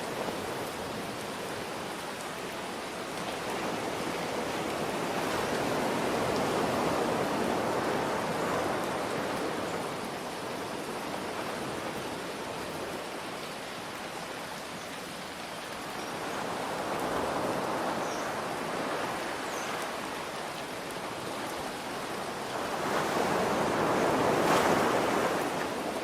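Ocean waves surging and washing in three times, slow swells about eight seconds apart with the last the loudest, over a steady hiss of rain.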